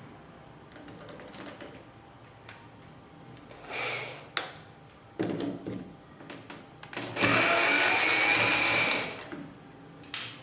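Electric drill running for about two seconds near the end, with a high steady whine, after a few clicks and short bursts of handling noise from tools and cabinet parts.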